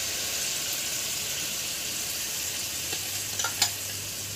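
Small river fish frying in hot oil and masala in a pan: a steady sizzling hiss. There are a couple of sharp ticks about three and a half seconds in.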